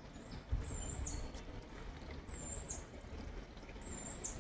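Outdoor ambience: a short, very high chirp repeats about every second and a half over a low rumble.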